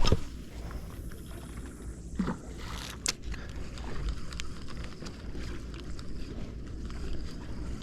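Longtail boat running under way: a steady low engine rumble mixed with wind and water noise. A loud thump right at the start and a sharp knock about three seconds in.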